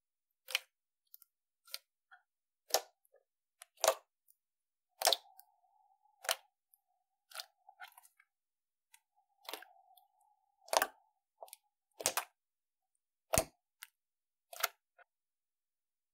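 Slime being pressed and played with by hand, giving a string of sharp, separate pops and clicks about once a second, with two fainter drawn-out sounds between them.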